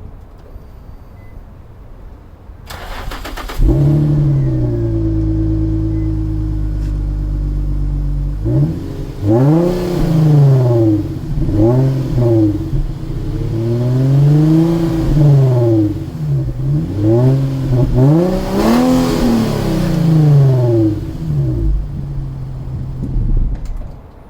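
Infiniti FX35's 3.5-litre V6 through an aftermarket exhaust: the starter cranks briefly, the engine catches about four seconds in and idles high and steady, then it is revved up and down several times before dropping back to idle near the end.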